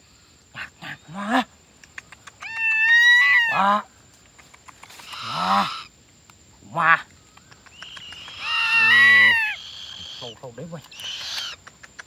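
Birds calling: two loud, drawn-out squawking calls with a held, whistle-like pitch, about two and a half seconds in and again about eight and a half seconds in, with shorter harsh screeches between them.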